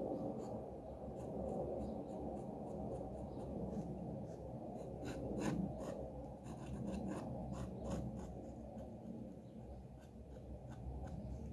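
A drawing tool scratching and ticking on paper in short, irregular strokes, over a steady low background hum.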